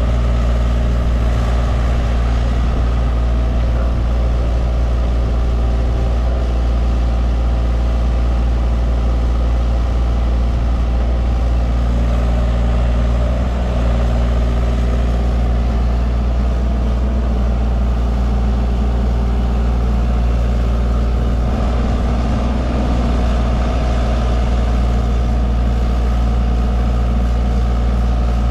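Mini excavator's diesel engine running steadily at a constant speed throughout.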